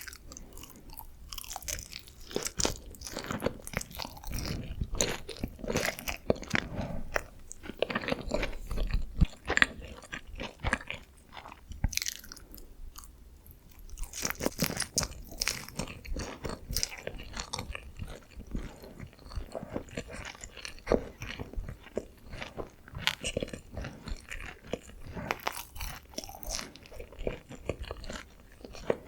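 Close-miked chewing and crunching of crispy Korean fried chicken glazed in sweet soy sauce (dakgangjeong), with dense irregular crackles and a brief pause partway through.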